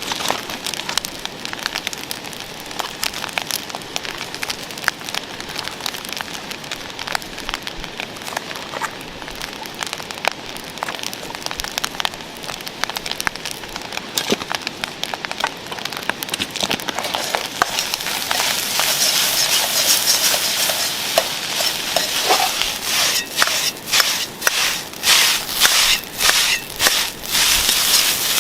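Wood campfire crackling with many sharp pops. About two-thirds of the way in, a louder frying sizzle of food in a pan over the fire joins, and near the end it swells and fades in a quick, regular rhythm.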